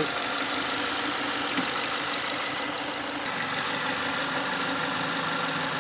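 Renault Duster engine idling steadily with cylinder 2 misfiring: its ignition coil is damaged and no spark reaches that cylinder.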